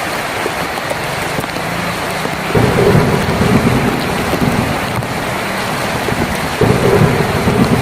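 Heavy rain drumming steadily on a tin roof, with two louder low rumbles: one about two and a half seconds in, the other near the end.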